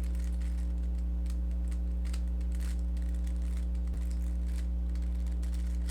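Rubik's Cube being turned through an algorithm, its layers giving off faint, irregular clicks, over a steady low electrical hum that is the loudest sound.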